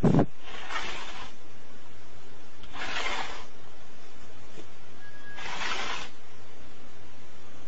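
A cat hissing in three short bursts about two and a half seconds apart: warning hisses in a standoff between two cats over a food bowl. A steady hum and hiss lies under it, with a sharp click at the very start.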